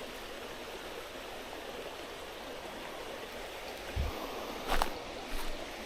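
Mountain stream running steadily, an even rush of water. About four seconds in there is a low thump, followed by a couple of sharper knocks near the end.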